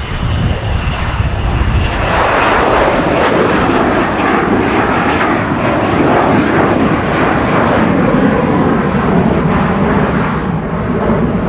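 Fixed-wing aircraft engines running at power, the noise swelling loud about two seconds in and staying loud, with a slowly shifting tone.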